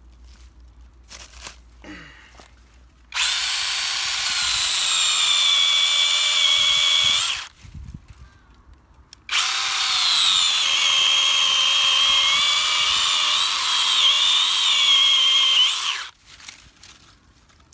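Small 12 V battery mini chainsaw with a 7-inch bar running in two cuts, one of about four seconds and a longer one of about seven, its high motor-and-chain whine dipping in pitch now and then. It is cutting the notch wedge out of a tree trunk to set the direction of fall.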